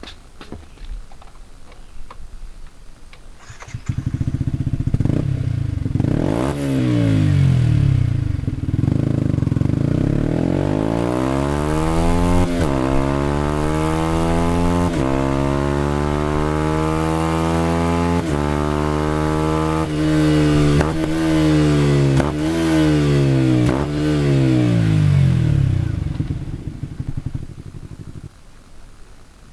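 Restored motorcycle engine starting, then revved up and down several times with its pitch rising and falling, before it is shut off near the end.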